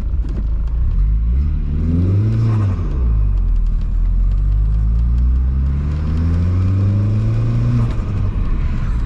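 Swapped-in VW 1.8T turbocharged four-cylinder pulling through the gears: the revs climb about two seconds in, drop sharply, then climb steadily again until another drop near the end, with the turbo noises the driver wanted to hear.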